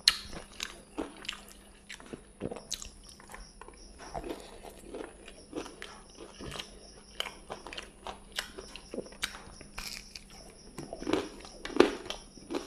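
Close-up eating sounds of a person chewing rice and fish: irregular wet smacks, clicks and crunches. The loudest come right at the start and near the end.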